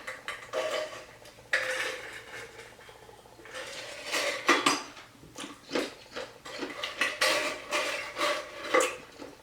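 Clinks and knocks of dishes and cutlery in irregular bursts, with a short lull about two seconds in.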